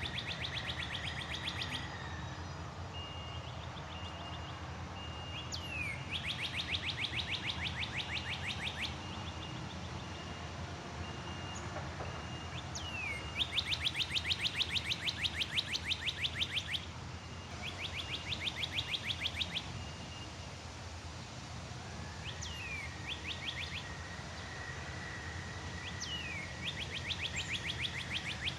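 A songbird singing the same song over and over, about every five to eight seconds: a quick falling note followed by a rapid trill lasting two to three seconds. A steady high tone is heard at the start and again near the end, over a low background hum.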